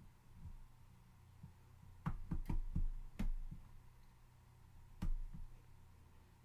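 A quick cluster of about six light clicks and knocks a couple of seconds in, then one more near the end, over a low steady hum.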